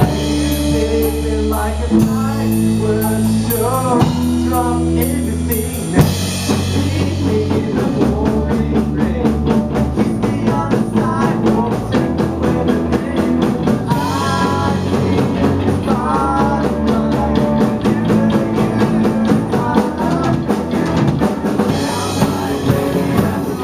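Live rock band playing: a voice singing over bass, guitar and drum kit. Long held bass notes carry the first few seconds, then about six seconds in the drums come in with a fast, steady beat.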